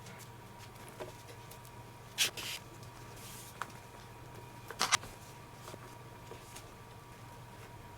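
Short rustles and clicks of hands working a leather baseball glove and its lacing, the strongest about two seconds in and just before five seconds in. Under them runs a steady low electrical hum.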